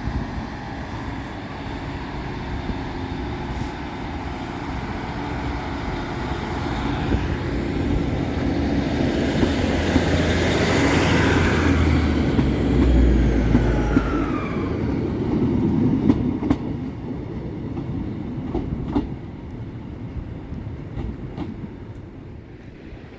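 Northern diesel multiple unit pulling out of the station. The engine and wheel rumble build to a peak about halfway through, with falling whines, then fade as it draws away. A few wheel clicks over rail joints come in the later part.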